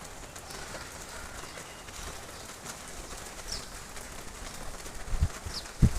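Outdoor background with birds calling faintly, including two short high chirps in the second half. Two brief low thumps near the end are the loudest sounds.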